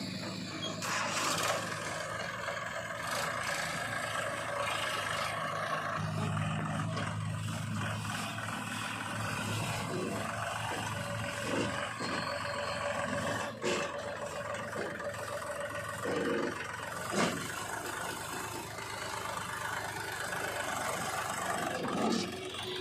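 Diesel engine of a JCB 3DX backhoe loader running steadily as it works, with a few sharp knocks around the middle and near the end.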